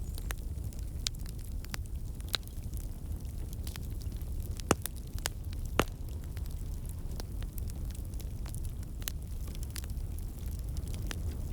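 Fireplace fire crackling: scattered sharp pops over a steady low rumble of the flames, with two louder pops near the middle.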